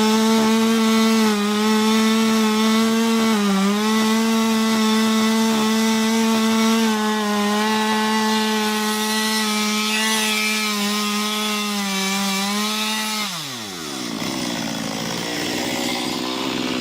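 Small chainsaw with a 15-inch bar running at full throttle, cutting into an ash trunk, its engine note steady apart from a brief dip about three and a half seconds in. About thirteen seconds in the throttle is released and the engine note falls to a lower, unsteady run, then winds down at the very end.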